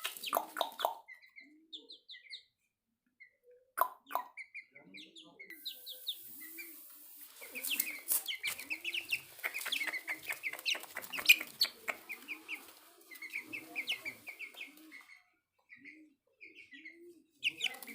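Aseel hen clucking in a steady string of short low clucks while her chicks peep in short high notes, with a run of clicking in the middle.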